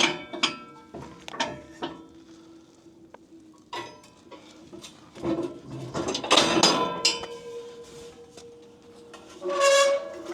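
Metal clinking and rattling: a string of short knocks and clinks, with a busier burst of clatter about midway.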